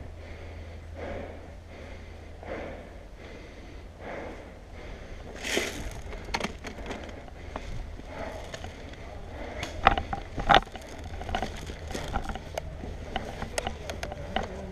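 Rustling and crunching of a player moving through brush and leaves, with scattered clicks and two sharp cracks about ten seconds in, over a low wind rumble on the microphone.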